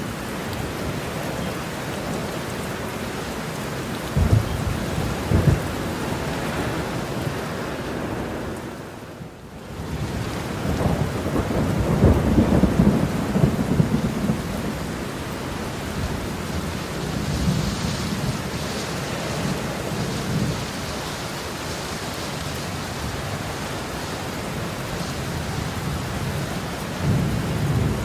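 Heavy rain falling steadily with thunder. Two sharp low cracks come about four and five seconds in, the rain briefly dips around nine seconds, then a long rumble builds and rolls on for several seconds, with another rumble near the end.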